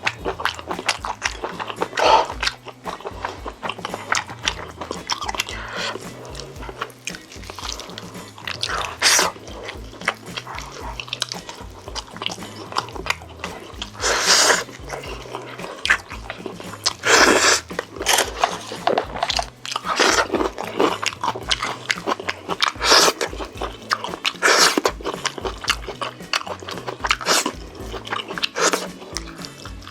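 Close-miked eating: irregular chewing and biting of chicken, with a louder bite or crunch every few seconds.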